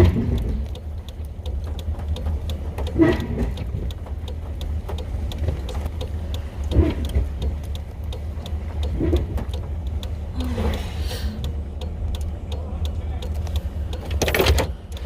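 Engine of a 1970 Chevrolet dump truck running with a steady low drone, heard from inside the cab. Over it is a fast, even ticking, about three ticks a second, and a few short louder knocks or rattles.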